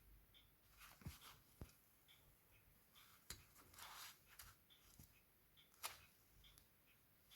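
Near silence with faint scattered clicks and brief rustling from small parts and tools being handled; the sharpest click comes near the end.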